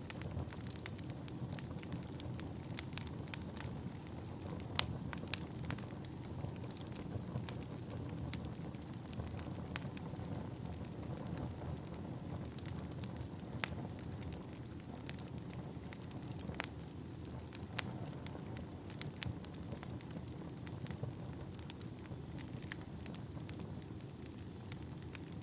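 Wood fire burning in a fireplace: a steady low rumble with irregular sharp crackles and pops of burning logs. Near the end a faint high whistle comes in, falling slightly in pitch and then holding.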